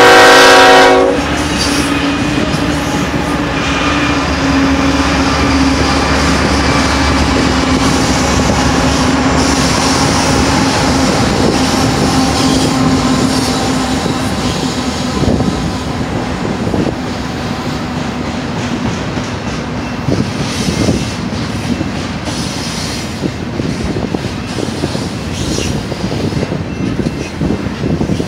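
BNSF intermodal freight train passing close by. A locomotive horn blast cuts off about a second in. A steady low hum from the diesel locomotives fades over the next dozen seconds, leaving the rumble and clickety-clack of the double-stack container cars rolling past.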